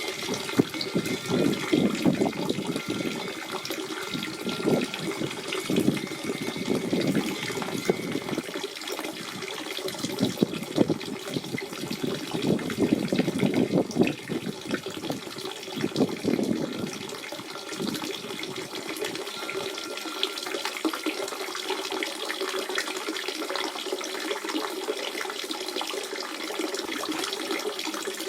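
Natural spring water running and gurgling. The low gurgling is uneven and heaviest through the first two-thirds, then the flow sounds steadier and more even.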